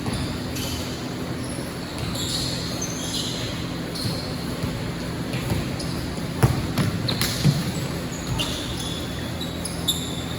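Basketball game sounds on an indoor court: a ball being dribbled, with many short high-pitched squeaks and a few sharp knocks, the loudest about two-thirds of the way through, over a steady low hum.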